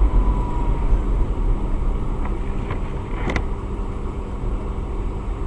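A car driving, with a steady low rumble of engine and tyres. A few sharp clicks or knocks stand out, the clearest about three seconds in.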